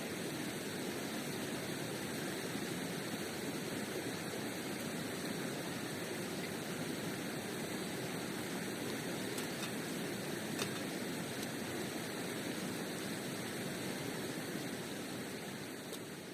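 Mountain river rushing steadily, with one brief click about ten seconds in; the sound fades out near the end.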